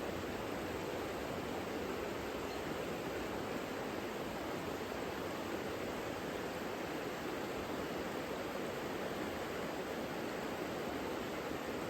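The Savica river flowing: a steady, even rush of running water with no breaks.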